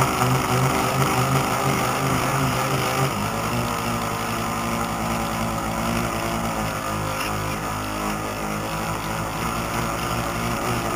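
Radio-controlled model boat motor running steadily over water, a hum of several steady tones over a wash of water noise. The motor note shifts about three seconds in.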